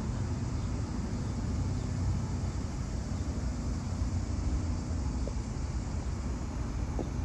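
Steady outdoor background rumble, strongest in the low range, with a faint steady hum and no distinct events.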